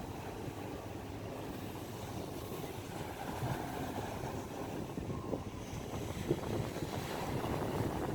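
Wind blowing across the microphone: a steady, low rushing noise.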